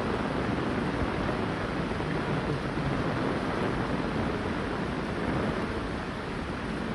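Floodwater rushing, a steady, unbroken noise.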